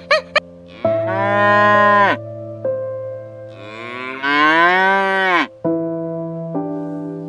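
Cattle mooing twice: a call of about a second, then a longer moo that rises and falls in pitch. Soft piano music plays underneath.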